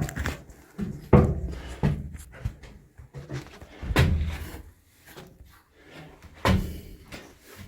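Irregular heavy thuds and knocks, about five, the loudest about four seconds in, as people move about and handle things inside a boat's engine room.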